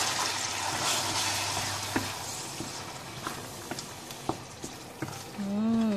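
Wet chili spice paste sizzling in hot oil in a stainless steel wok, the sizzle loud at first and dying down over a few seconds. A wooden spatula stirring it knocks and scrapes against the pan now and then.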